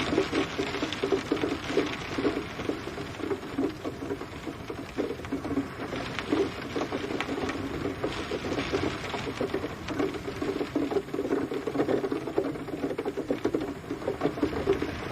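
Steady rain pattering on a surface, a dense, irregular stream of drops with no thunder.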